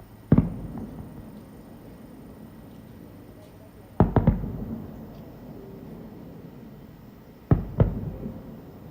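Aerial firework shells bursting: five sharp booms, one just after the start, a pair about four seconds in and another pair near the end, each trailing off in a rumbling echo.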